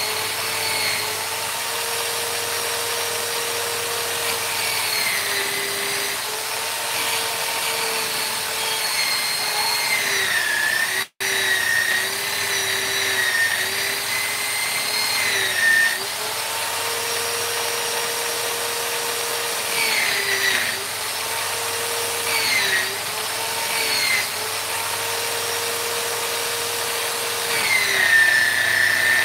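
Handheld electric rotary tool running steadily while it works wood. Its whine dips in pitch briefly every few seconds as the bit bites under load. The sound cuts out for an instant about eleven seconds in.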